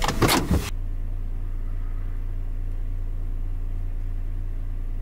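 Honda N-VAN's small three-cylinder engine idling, a steady low drone heard from inside the cabin, after a brief loud burst of music that ends in the first second.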